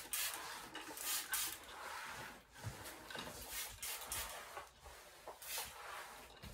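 Irregular light clattering and rustling as things are handled and moved about during cleaning of a parrot room, in short scattered knocks and scrapes.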